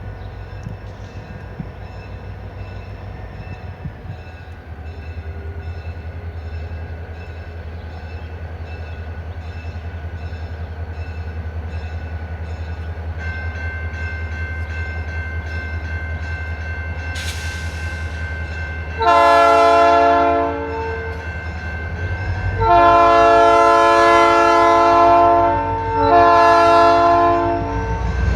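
Diesel freight locomotive approaching, its engine rumble growing steadily louder, then its multi-tone air horn blowing two long blasts and a short one, with another long blast starting at the very end: the long-long-short-long grade crossing signal.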